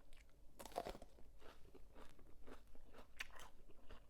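Close-up chewing of a crunchy spicy squid salad: irregular wet crunches several times a second, with a louder crunch just under a second in.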